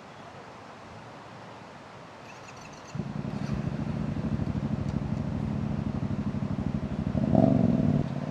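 Single-cylinder engine of a Royal Enfield Himalayan 450 motorcycle. It comes in abruptly about three seconds in, runs steadily at idle, and revs up briefly near the end.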